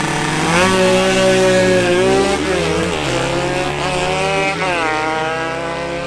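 Drag-racing motorcycles, a two-stroke Yamaha RX 115 and a four-stroke AKT NKD, accelerating hard. The engine pitch climbs, drops back at a gear change and climbs again, with a sharp rise under a second in and another about four and a half seconds in.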